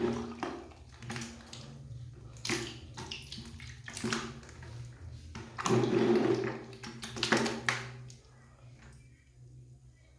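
Water splashing and sloshing in irregular short bursts, dying away about eight seconds in.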